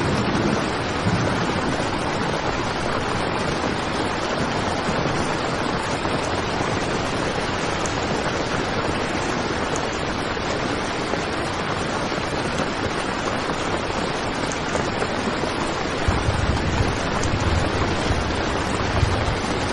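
Heavy rain drumming steadily on a tent's fabric, an even wash of noise; a deeper low rumble joins it about sixteen seconds in.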